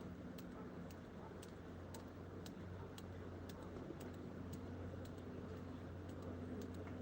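Regular light ticking, about two ticks a second, over a steady low hum.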